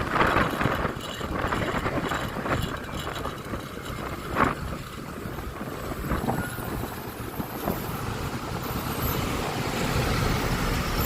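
Riding a Honda Click 125i scooter through city traffic: the scooter's engine and the noise of surrounding vehicles, steady, with one short sharp sound about four and a half seconds in and the traffic noise growing a little louder near the end.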